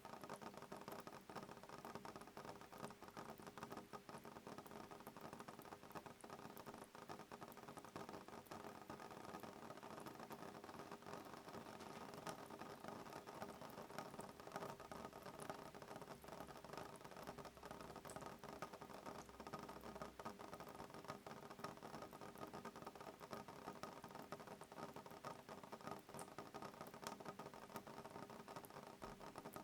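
Soft rain pattering on a window pane: a steady, quiet patter of many fine drop ticks.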